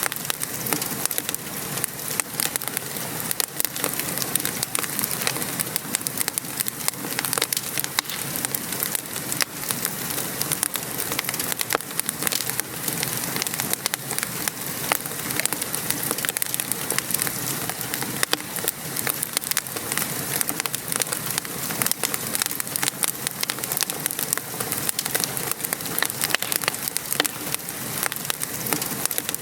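Steady patter of rain mixed with a crackling wood fire, many small sharp pops and snaps scattered over the even hiss of the rain.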